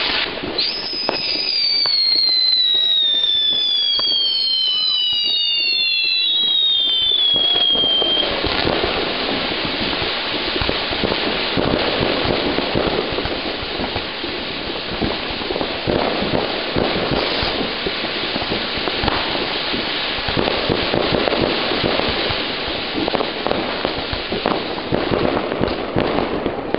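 Ground-level fireworks going off at close range. In the first eight seconds several whistles fall in pitch over a hiss; after that comes a dense, continuous crackling and popping.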